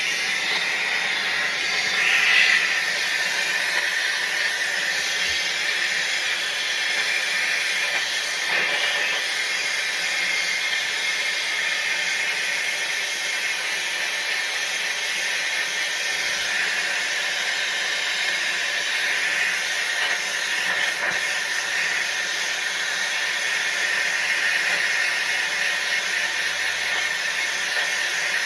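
A steady hiss of rushing gas or air, unbroken throughout.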